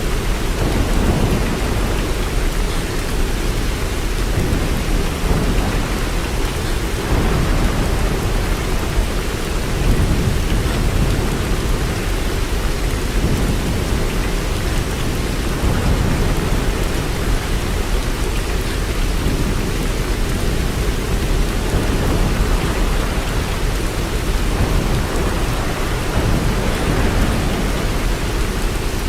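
Steady heavy rain falling, with a low rumble underneath that swells and fades every few seconds.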